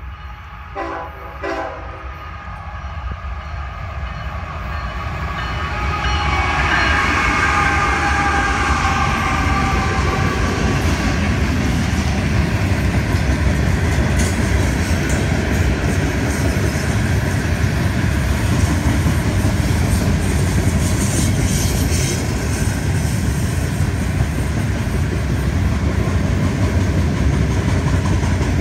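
Freight train passing, led by two GE ES44C4 diesel locomotives. A short horn blast comes about a second in, and the locomotives come by about six seconds in. Then a long string of loaded hopper cars rolls past with a steady rumble and clattering wheels.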